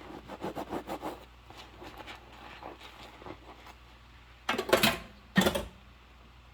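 Dishwashing by hand in rubber gloves, with quick scrubbing strokes at first, about five a second. Fainter rubbing follows, then two louder bursts of rubbing about four and a half and five and a half seconds in.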